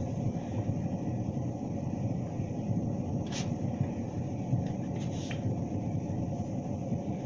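Steady low rumble of distant engine noise, with two faint brief clicks partway through.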